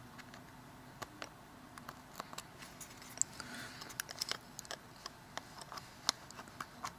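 Faint, irregular small clicks and light scraping of tools and small parts being handled during Samsung Galaxy S3 disassembly.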